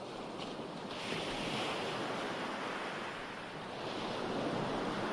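Recorded ocean waves breaking and washing on a shore, a steady surf hiss that swells about a second in and again near the end.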